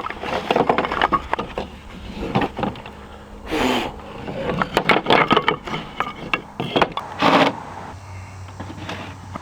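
Wooden boards being handled and knocked together: an irregular run of clicks and knocks, with two brief louder sounds about three and a half and seven seconds in.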